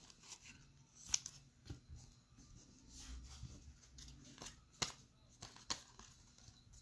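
Faint handling of trading cards: cards sliding and flicking against each other and their wrapper, with a few sharp clicks.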